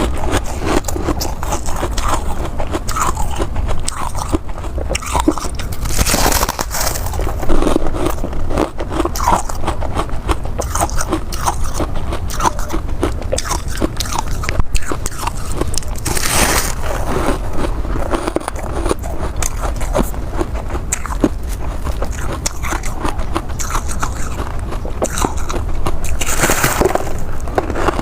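Close-up crunching and chewing of ice in the mouth: steady crackling chews, with three louder crunching bites about ten seconds apart.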